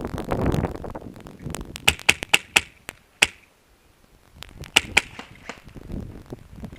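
Airsoft guns firing sharp single shots in quick succession: about five cracks a couple of seconds in, a short pause, then three more.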